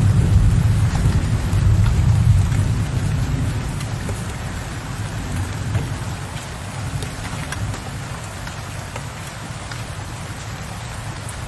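Steady rain with raindrops tapping on a window ledge. A low rumble of distant thunder dies away over the first few seconds, leaving the rain alone.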